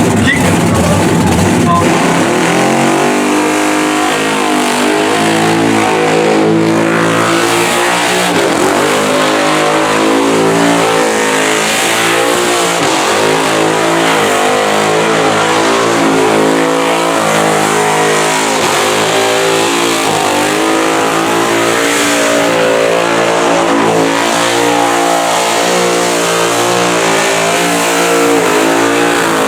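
Warbird burnout car's 1,700-horsepower methanol-injected engine running loudly from about two seconds in, its note rising and falling with the throttle.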